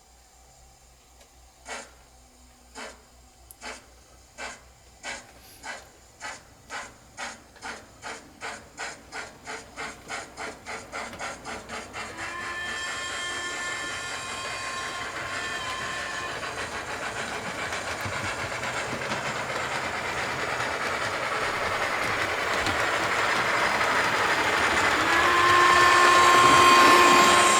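Sound from an ESU LokSound v5 decoder in a Hornby Coronation Class model steam locomotive, on a Duchess sound project, starting away. The exhaust chuffs begin about a second apart and quicken until they run together into a steady beat with steam hiss. A whistle blows about halfway through, and a louder whistle sounds near the end.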